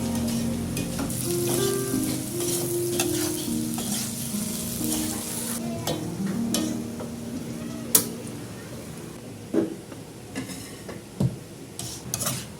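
Peanut peyek batter frying in hot oil with a sizzle, loudest in the first half. Near the end come several sharp knocks of a utensil against the pan, over soft background music that fades out partway through.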